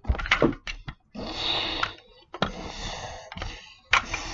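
A child making breathy hissing sound effects with the mouth: two long hisses about a second each. Between them come a few sharp clicks.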